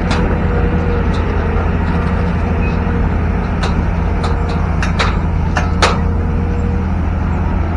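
Long-arm excavator's diesel engine running steadily with a faint whine, with several sharp metallic knocks around the middle.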